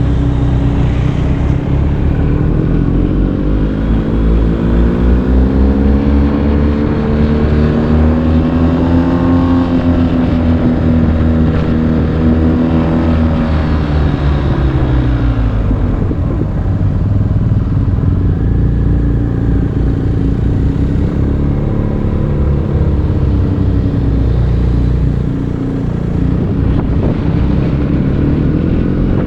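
BMW R 1250 GS's boxer twin through an Akrapovic exhaust, revs rising steadily for several seconds, then falling off about halfway through. It runs lower and steadier before climbing again near the end.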